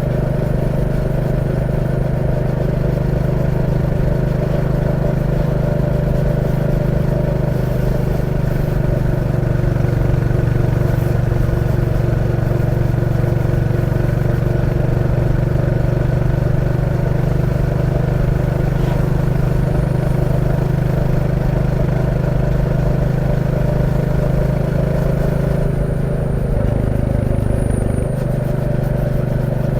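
Royal Enfield Classic 350's single-cylinder engine running steadily while riding. The engine note shifts briefly about 26 seconds in, then settles again.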